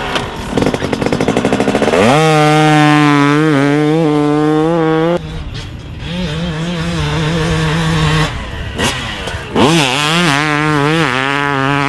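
Two-stroke dirt bike engine revving hard and running under load. Its pitch climbs sharply about two seconds in and again near the end, then holds and wavers with the throttle, broken by abrupt cuts between passes.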